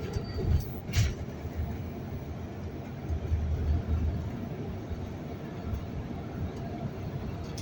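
Steady low rumble of a moving vehicle, with a sharp click about a second in.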